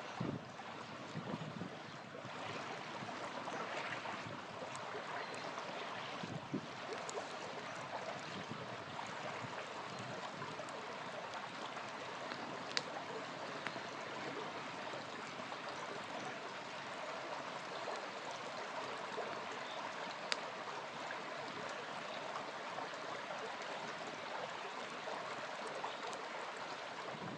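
A small river flowing in a steady rush, with a few sharp crackles from a campfire.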